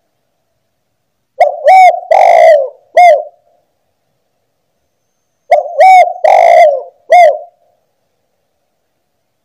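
Spotted dove (tekukur) cooing: two phrases a few seconds apart, each of four coos, the third coo longer and rougher than the short ones around it.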